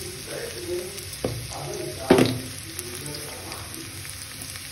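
Diced onions and cubed vegetables frying in hot oil in a pan, a steady sizzle. There is one sharp, loud crackle about two seconds in.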